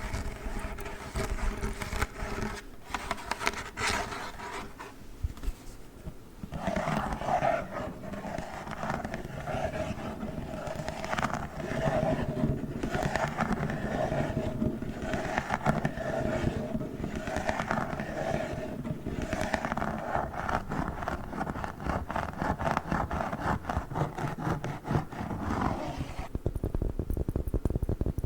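Gel cold pack being squeezed and rubbed by hand in irregular, scratchy strokes; near the end the sound changes abruptly to a different handling sound.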